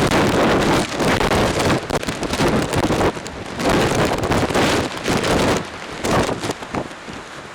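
Typhoon wind and rain: gusts buffet the microphone in loud surges every second or so, easing off somewhat near the end, with rain hissing throughout.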